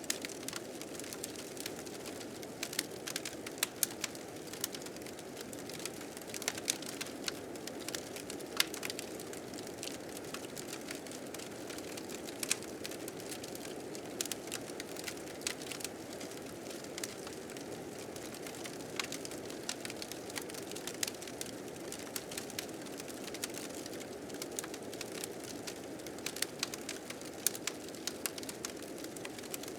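Blizzard wind blowing as a steady, low rushing noise, layered with a fire crackling, with frequent sharp pops at irregular intervals.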